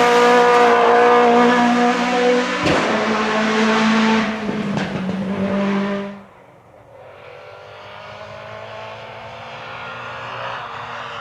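Rally car engine running loud at high revs close by. About six seconds in the sound drops away suddenly to a fainter engine that slowly grows louder.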